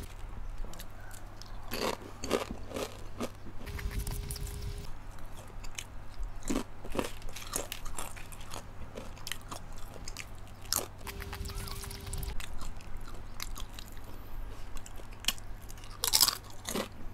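Crunching and chewing of thin, crispy nacho-cheese chips, with irregular sharp crunches between quieter chewing and a louder crunch near the end.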